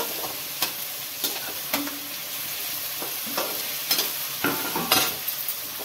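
Vegetables and soya chunks sizzling in hot oil in a metal kadhai, with a spatula scraping and knocking against the pan several times as they are stirred and fried.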